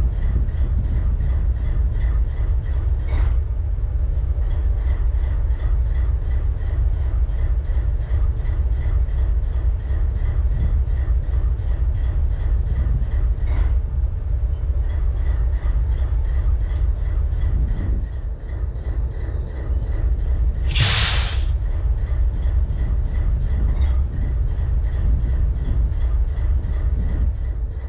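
Diesel-electric locomotive engine idling with a misfire, a steady low rumble. About 21 seconds in a loud burst of hiss lasts about a second.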